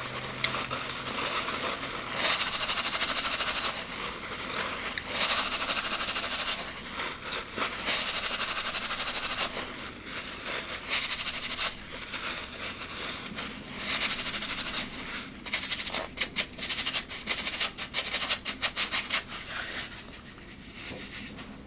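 Close-miked chewing and crunching of food, in uneven crackly stretches with quicker runs of clicks.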